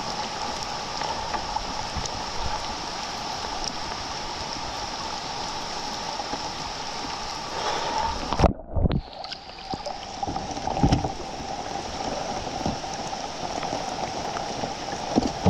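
Steady rushing of river current around a kayak, with heavy knocks and splashes in the middle and a sudden muffling of the sound for about a second, as if the microphone went under or was covered.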